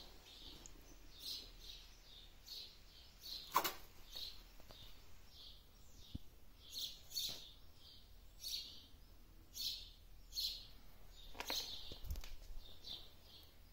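Faint chirping of small birds: short high chirps repeating irregularly, about one every second. A couple of sharp clicks come about a third of the way in and again near the end.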